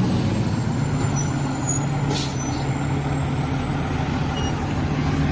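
Garbage truck's engine running with a steady low drone, with a short hiss about two seconds in.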